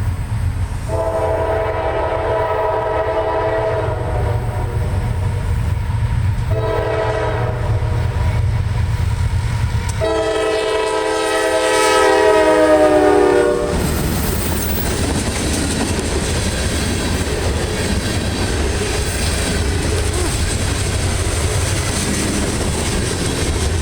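CSX CW44AH diesel locomotive's air horn sounding three long blasts over the low rumble of the engine. The third is the longest and loudest, and its pitch drops slightly as the locomotive passes. Then come the steady rolling rumble and wheel clatter of the train's cars going by.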